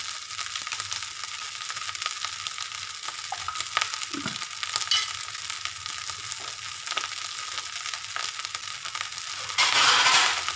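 Fried rice with sausage and egg sizzling steadily in a steel wok, with a few small clicks and knocks. Near the end a louder rush of noise lasts about a second.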